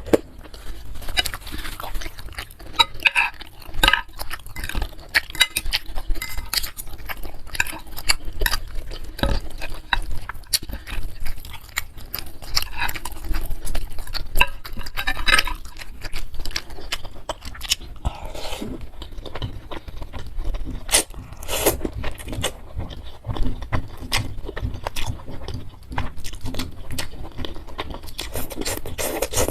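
Close-miked eating of bakso meatball soup with noodles: wet chewing and mouth sounds, with utensils clicking and clinking against the bowl now and then.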